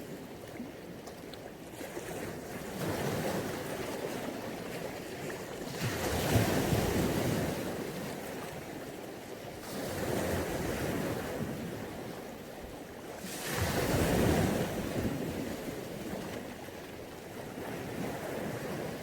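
Mediterranean sea waves breaking and washing up the beach, swelling in surges about every three to four seconds, with the loudest surges about six and fourteen seconds in.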